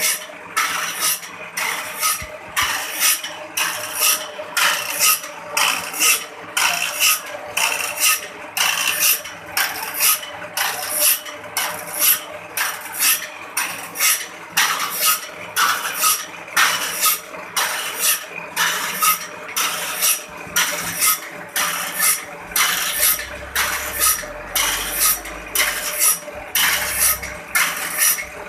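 Homemade motor-driven saw-filing machine stroking a file back and forth across the teeth of a band-saw blade: an even rhythm of metallic rasping strokes, about one and a half a second, over a steady hum.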